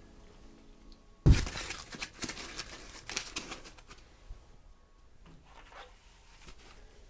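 A sudden thump about a second in, followed by a few seconds of rustling and crinkling handling noises that fade into scattered faint clicks.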